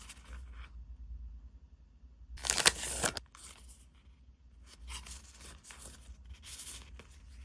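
Packaging being torn open and handled: several bursts of tearing and rustling, the loudest about two and a half seconds in.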